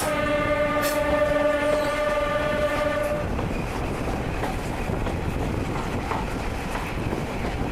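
HST power car's air horn holding one steady note that cuts off about three seconds in, followed by the steady rumbling noise of the train running on the rails.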